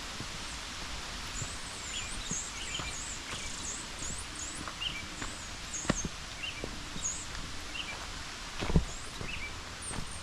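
Footsteps and rustling on a forest trail, with a few sharp thumps, the loudest near the end, over the steady rush of a waterfall running high after heavy rain. A small bird chirps repeatedly in short high notes.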